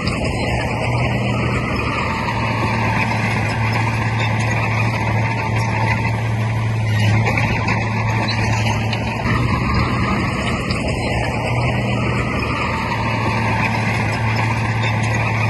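Heavy diesel earthmoving machinery running steadily, with a constant low engine hum and a gentle swell and fall every few seconds as the load changes.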